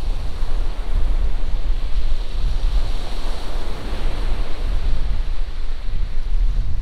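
Wind buffeting the microphone with a steady rumble, over the continuous wash of surf.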